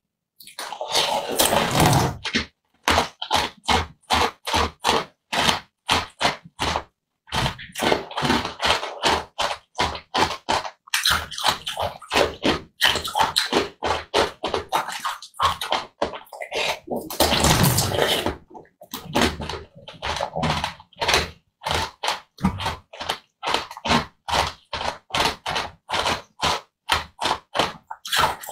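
Close-up eating sounds: soft gel jelly studded with small beads being bitten and chewed, a quick run of wet squishing clicks about three a second with a few short pauses. There are two longer, louder slurps, about a second in and about two-thirds of the way through.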